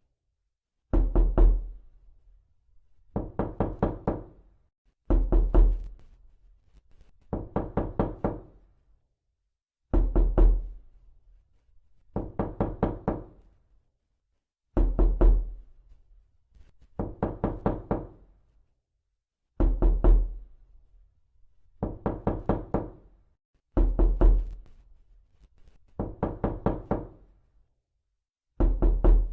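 Knocking in quick runs of about a dozen rapid knocks, each run lasting about a second and fading away, repeated every two seconds or so. Several runs begin with a heavy low thud.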